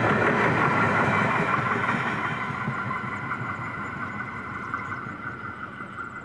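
Diesel freight train, a BL-class locomotive with a single flat wagon, moving away after passing: its rumble and wheel-on-rail noise fade steadily, while a steady high ringing tone holds on to the end.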